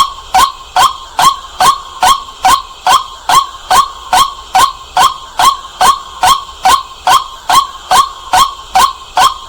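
White-breasted waterhen calling: a loud, short, sharp note repeated steadily, about two and a half times a second.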